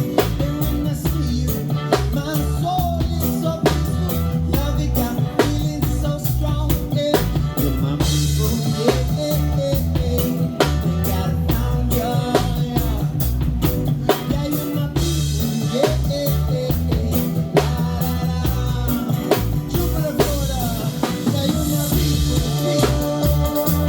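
Live band playing an instrumental break: drum kit with rimshots and bass drum over a steady bass line, with a melody line on top.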